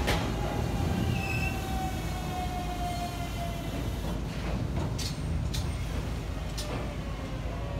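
Two-car Kintetsu electric train rolling slowly past over pointwork, with a steady low rumble. A thin whine falls in pitch over the first few seconds, and there are several sharp clicks of wheels crossing rail joints.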